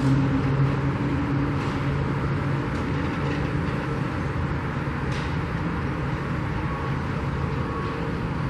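Steady engine and traffic rumble, with an engine hum that is strongest at first and fades about a second in.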